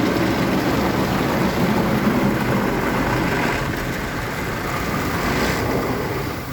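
Istobal M'nex 22 rollover car wash's brushes and water spraying over a car, heard from inside the cabin: a loud, steady scrubbing and splashing rumble that eases slightly near the end. The brushes press hard enough on the body to fold in the side mirrors.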